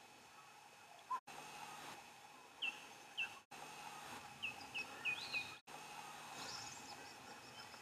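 Short, sharp bird chirps, each dropping slightly in pitch, over a faint steady bush background: two a little under three seconds in, then a quick run of about five between four and a half and five and a half seconds. The sound cuts out abruptly for an instant three times.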